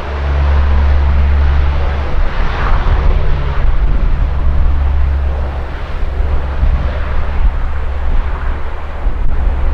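Large aircraft's engines running loud as it passes, a continuous rush with a heavy low rumble.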